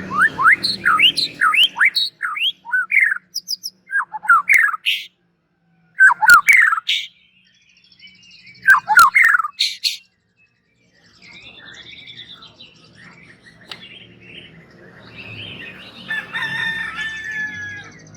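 White-rumped shama (murai batu) singing loud, fast phrases of rising whistles and chatter in three bursts over the first ten seconds, with short gaps between them. After that only fainter, mixed background sound remains, with a few held tones near the end.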